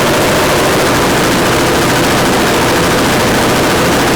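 A machine running loud and steady with a very fast, even rattle.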